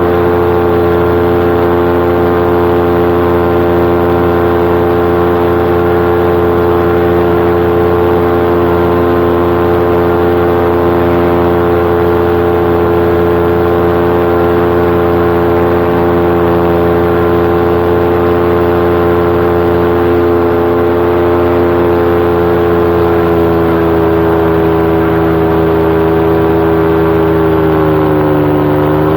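Paramotor engine and propeller running at a steady cruise, a loud even drone. Near the end the pitch sinks briefly and comes back up as the throttle is eased and reopened.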